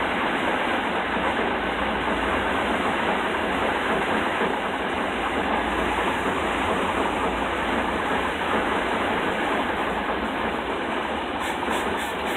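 Carbureted engine running steadily at a raised speed, its throttle held open by hand at the carburetor linkage.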